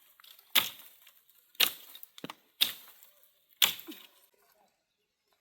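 Four sharp, evenly spaced strikes about a second apart, each with a short ringing tail, like blows being struck with a tool.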